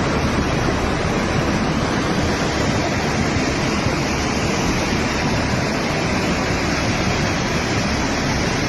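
Floodwater rushing: a steady, loud torrent of water that starts abruptly and holds constant throughout.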